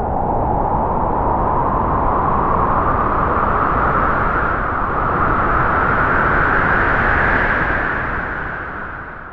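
Strong wind howling through trees, its howl rising slowly in pitch over several seconds, then fading away near the end.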